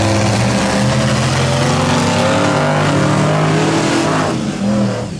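A mud truck's engine revving hard, its pitch climbing and falling again and again as the throttle is worked, over a steady hiss.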